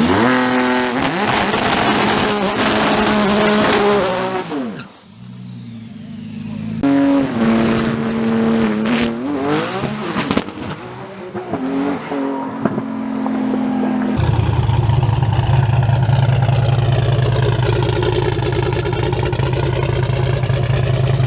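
A race truck's engine revving hard twice, each time climbing quickly and holding at high revs, with a short drop between. Then an abrupt change to a steady low drone.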